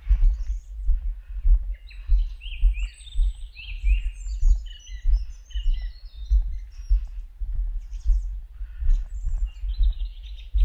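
Small birds singing, several quick chirping and warbling phrases, over the walker's own regular low footfall thuds, about one step every three quarters of a second.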